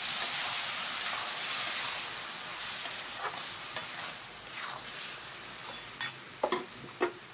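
Potatoes, onions and tomato purée sizzling in a metal kadhai while a metal spatula stirs and scrapes through them, the sizzle slowly dying down. Near the end, three or four sharp knocks of the spatula against the pan.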